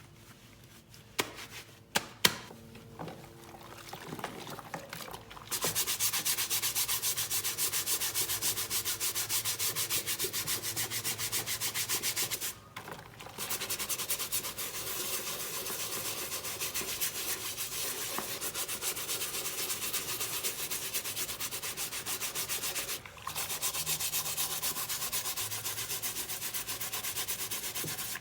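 A brush scrubbing a cap during washing: a rapid, steady scrubbing that stops briefly twice. A few sharp clicks come in the first seconds.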